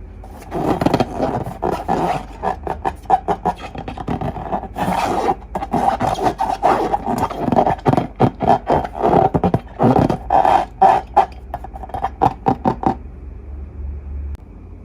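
Slime being squeezed and worked by hand: a rapid, irregular run of wet squelches and pops that stops shortly before the end.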